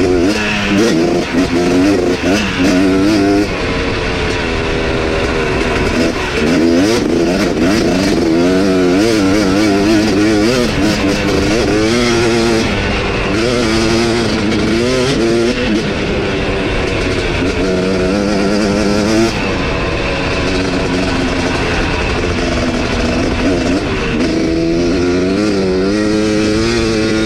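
Dirt bike engine being ridden hard, the revs rising and falling again and again as the throttle is worked, every second or two.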